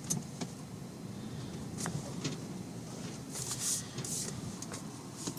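Car engine running at low idle with a steady low rumble, with a few scattered clicks and two short hissing sounds about three and a half to four and a half seconds in.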